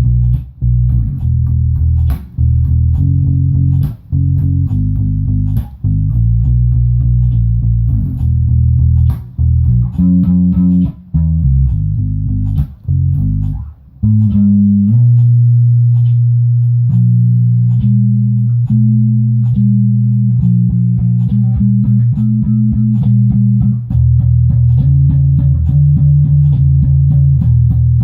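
Bass guitar playing a line of low notes over a steady percussive beat. In the middle stretch the notes are held longer while the beat keeps ticking quickly.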